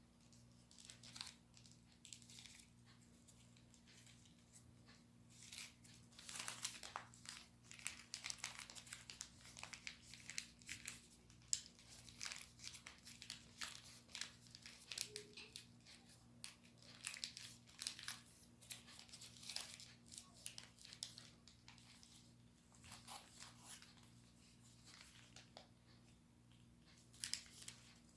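Origami paper being folded and shaped by hand: crisp rustling and crinkling, busiest from about six to twelve seconds in and again around seventeen to twenty seconds, with quieter gaps between.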